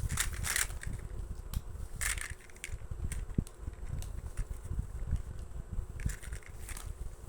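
Small toy cars being handled and set down: scattered clicks and short rattles over a low rumble of handling noise, with clusters about half a second in, about two seconds in and near the end.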